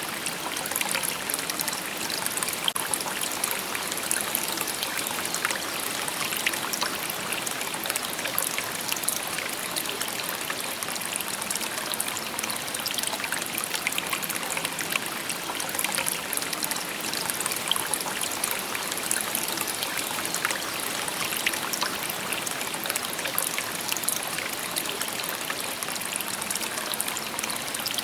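A shallow river or stream babbling steadily over stones, a continuous, bright trickling and splashing with no change in strength.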